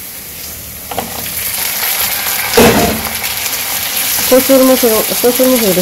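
Fried, broken-up fish heads tipped from a steel bowl into hot oil in a kadai and stirred with a wooden spatula: the sizzling builds about a second in and is loudest about halfway through.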